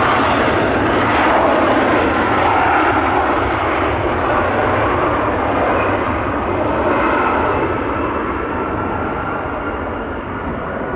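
Hawker 800XP business jet's twin turbofan engines at takeoff power as it climbs away, a steady loud rumble with a faint whine that slowly fades.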